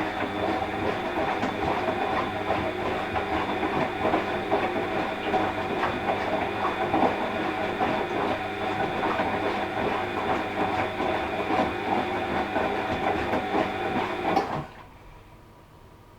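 Washing machine drum turning in a wash-cycle burst: motor hum with a steady rattling clatter, which cuts off suddenly near the end, leaving a faint hum.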